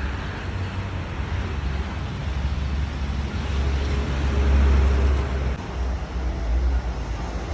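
Road traffic rumbling past on the main road, with one vehicle passing close and loudest about four to five seconds in.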